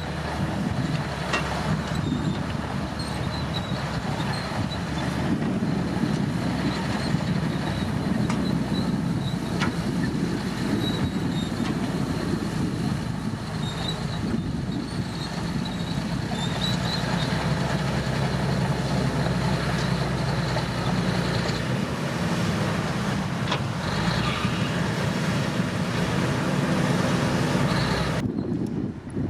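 Komatsu D65P crawler bulldozer's diesel engine running steadily, with faint high squeaks and a few sharp knocks from the machine.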